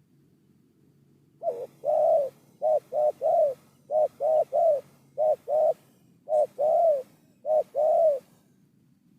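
Spotted dove cooing: a run of repeated coo phrases, each of two or three notes rising and falling in pitch and ending on a longer note. It starts about a second and a half in and stops near the end.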